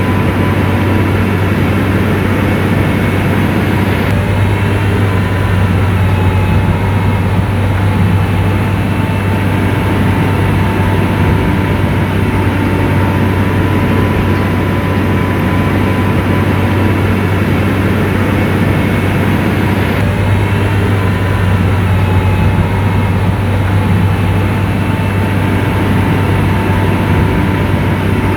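Diesel engine of an SDLG motor grader running steadily while the machine works, a heavy, even hum with a thin high tone over it.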